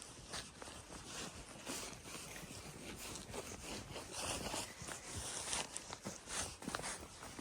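A horse's hooves crunching through fresh snow at a walk, a steady run of soft crunches about one or two a second.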